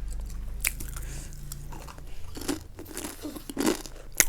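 Close-up crunching and chewing of crunchy snack food: a few sharp crunches with irregular softer chewing between them.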